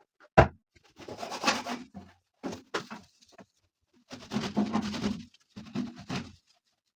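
Household cleaning and handling sounds. There is a sharp knock, then two stretches of rustling and rubbing, with a few short knocks in between.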